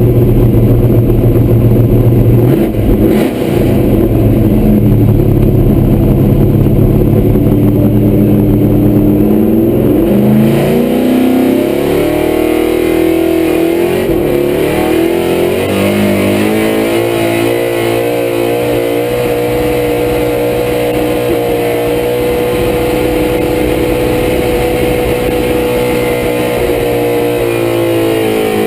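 Pulling truck's small-block Chevy V8 running loud under load during a sled pull. Its pitch holds for about ten seconds, climbs, dips briefly, then holds a higher steady note to near the end.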